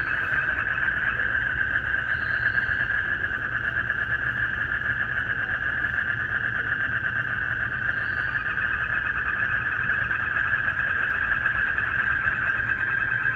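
Dense night chorus of frogs and crickets calling, a steady shrill pulsing drone, with a few brief higher chirps standing out over it.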